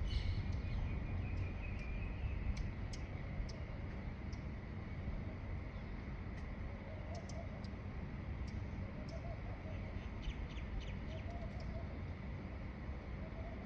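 Birds calling in a dawn chorus: short high chirps scattered throughout, with a few lower wavering calls in the second half, over a steady low rumble and a faint steady high whine.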